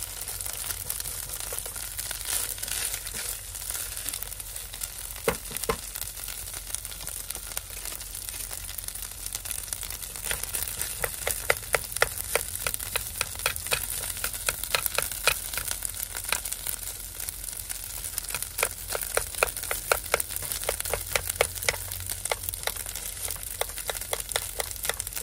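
Sausage and rice frying in a pot with a steady sizzle while being stirred and broken up with a silicone spatula. Frequent quick scrapes and taps of the spatula against the pot come thickest in the second half.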